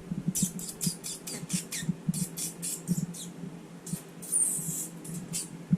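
Small animal scratching and rustling in quick, irregular high-pitched strokes, with a brief high squeak about four seconds in, over a faint steady hum.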